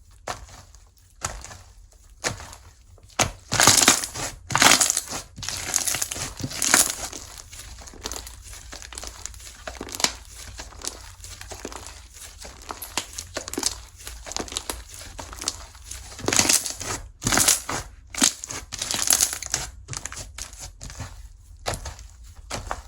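Slime being squeezed and pressed by hand, giving a dense run of crunchy, crinkly crackles and clicks, loudest in two clusters about four seconds in and again about sixteen seconds in.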